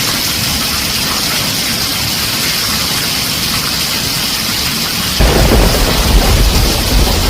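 Heavy rain drumming steadily on a tin roof, joined about five seconds in by a deep rumble of thunder that makes the sound louder.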